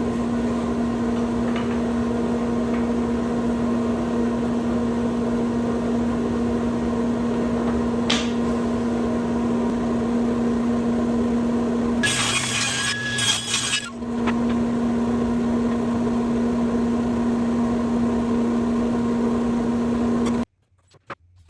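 Bandsaw running with a steady hum. About twelve seconds in, the blade cuts through redwood for about two seconds with a brief noisy cutting sound, then the steady hum returns and stops abruptly near the end.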